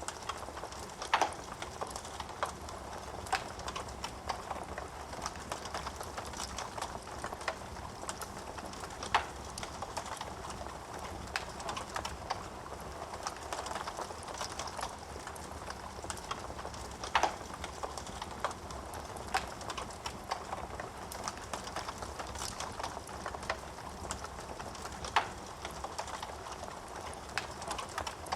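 Wood fire burning in a fireplace: a steady low hiss of flames with irregular crackles and pops of burning wood, a few sharp louder pops standing out about a second in, near nine seconds, near seventeen seconds and near twenty-five seconds.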